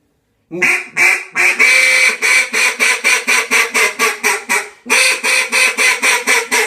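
New Era Duck Nasty duck call blown in quacking sequences. Two single quacks and a longer drawn note lead into a fast string of short quacks, about five a second. The string breaks off briefly about four seconds in and starts again.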